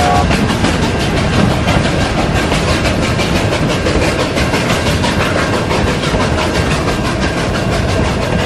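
Passing train: a steady rumble of wheels on rails with a clickety-clack of rail joints. A multi-note train whistle cuts off right at the start.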